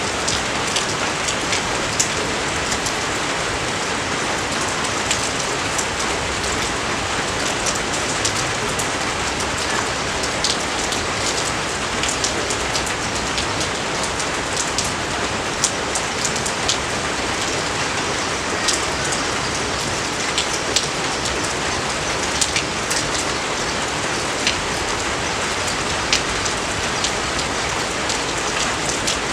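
Steady rain falling on rice paddies: an even hiss with many sharp drop ticks scattered through it.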